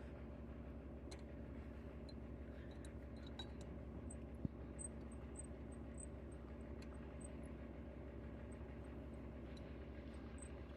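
Scania truck's diesel engine running steadily with a low, even hum. There is a single sharp click about four and a half seconds in.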